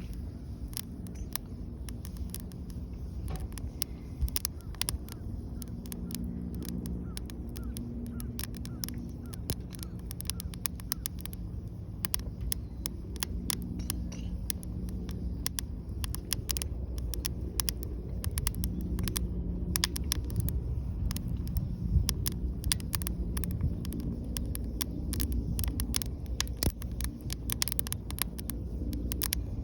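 Wood fire crackling in a fire pit, with many irregular sharp pops and snaps over a steady low rumble.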